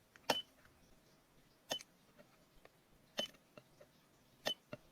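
A handheld battery spot welder firing: four sharp snaps about a second and a half apart, each followed by a brief high tone.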